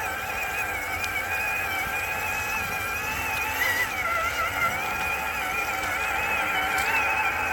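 RC4WD Gelande 2 scale crawler's electric motor and gearbox whining as it drives, the whine wavering up and down in pitch with the throttle.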